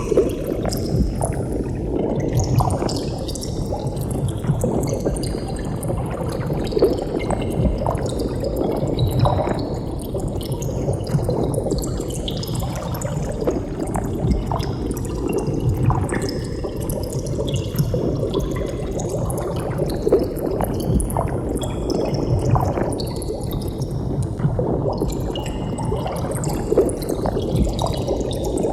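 Water bubbling: a dense, steady stream of small bubbles gurgling and popping.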